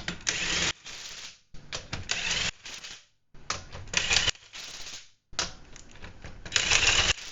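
Impact wrench running lug nuts onto a car wheel in several short rattling bursts, one nut after another. The wrench is turned down to a low setting, so the nuts are only snugged and not fully tightened.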